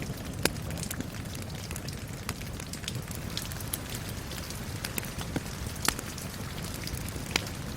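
Steady rain mixed with a crackling wood fire: an even rush of rain under scattered sharp pops and crackles, a few louder ones about half a second in, near six seconds and just before the end.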